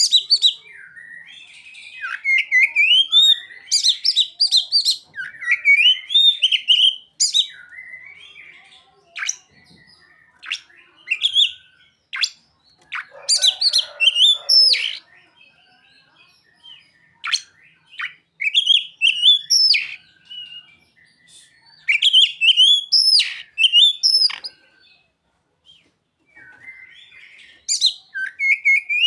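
Oriental magpie-robin (kacer) singing a loud, varied song of quick chirps and rising whistles in short phrases with brief pauses between them, its song filled with mimicked calls of the bar-winged prinia (ciblek) and sogon.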